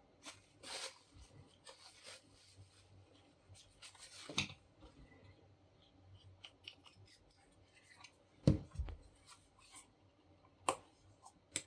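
Hands handling and fitting small plastic and metal parts together: scattered clicks, rubs and short scrapes, with a dull knock about eight and a half seconds in.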